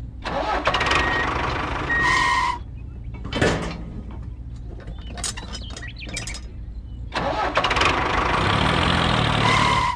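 Tractor engine sound starting and idling with a steady low running note, louder at the start and again over the last few seconds, with a few light clicks in the quieter middle.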